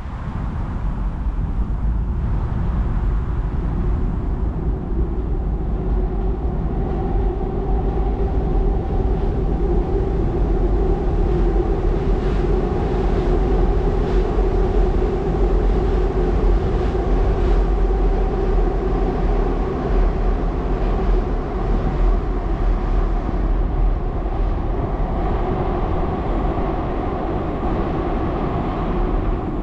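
Seoul Subway Line 2 train crossing a railway bridge: a steady rumble with several humming tones from the wheels and rails. It builds over the first couple of seconds, is loudest around the middle and eases off slightly near the end.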